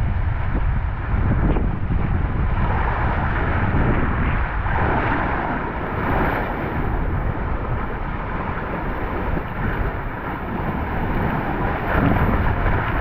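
Wind buffeting an action camera's microphone: a steady, loud rumble with a rushing hiss over it.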